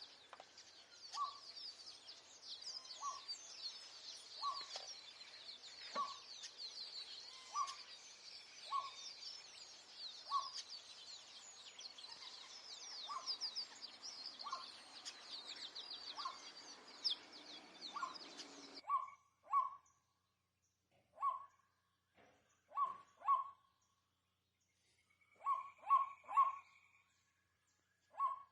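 A bird calling with short, sharp yelping notes, one about every second and a half, over a dense high chirping of small birds or insects. About two-thirds of the way in the background chirping cuts off abruptly, and the calls then come in quick pairs and triples.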